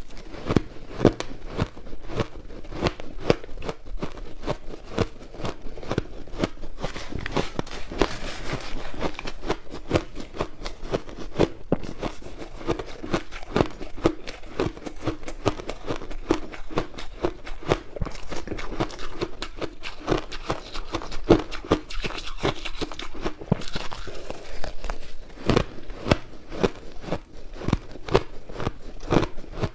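Crushed ice being bitten and chewed close to the microphone: a dense, continuous run of sharp crunches, several a second.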